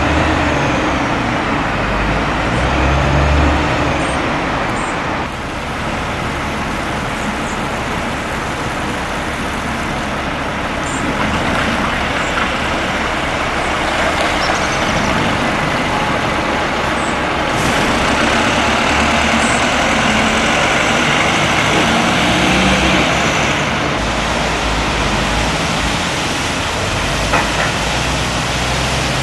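Heavy diesel road vehicle engine running amid steady traffic noise, with a few brief high squeaks and a short click near the end.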